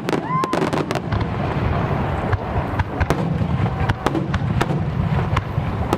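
Fireworks display: aerial shells bursting and crackling in rapid, irregular succession, a dense run of sharp cracks over a continuous low rumble.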